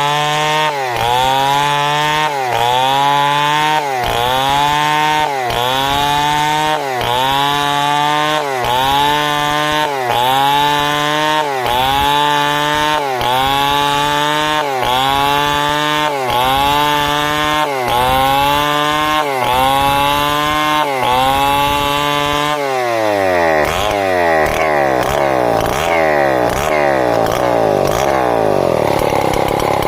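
Chainsaw ripping timber lengthwise into planks, the engine under heavy load, its pitch dipping and recovering about every second and a half. About three quarters of the way through the engine drops to a lower speed, then picks up again near the end.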